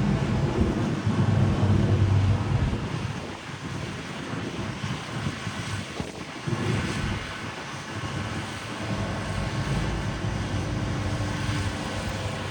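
CRJ-700 regional jet's twin turbofan engines at takeoff thrust, a rough, noisy rumble. Loudest for the first three seconds, then lower and uneven with a brief swell partway through as the jet moves away.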